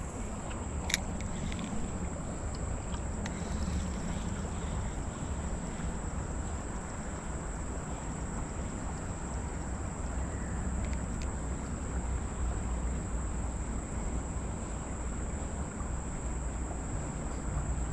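Steady, high-pitched chirring of insects over a low outdoor rumble, with a sharp click about a second in.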